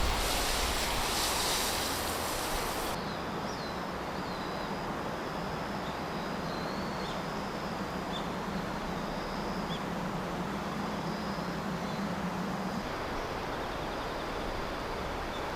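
Wind buffeting the microphone with a low rumble for about three seconds, then cutting abruptly to a steady outdoor hiss with faint, scattered high chirps and a low steady hum that stops near the end.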